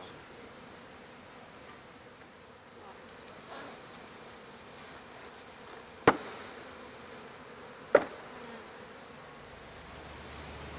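Honeybees buzzing steadily around an opened colony, broken by two sharp knocks about two seconds apart.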